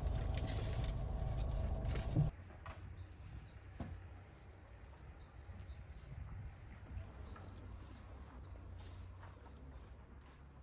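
Car interior driving noise for about the first two seconds, cutting off suddenly. Then small birds chirp repeatedly in short high notes over a faint low hum.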